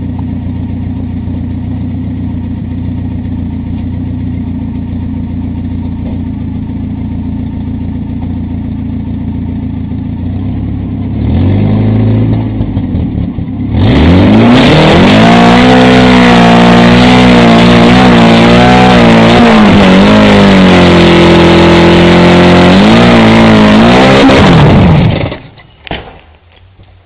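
Car engine idling steadily, blipped once, then revved hard and held at high revs for about ten seconds, so loud that the recording clips. The revs then fall and the engine cuts out abruptly near the end, leaving a few faint clicks.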